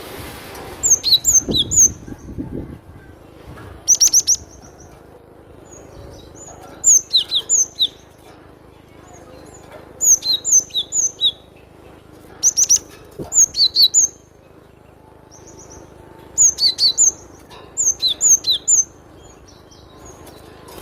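Cinereous tit (glatik batu) singing: bursts of quick, sharp, high notes, each burst about a second long and repeated every two to three seconds.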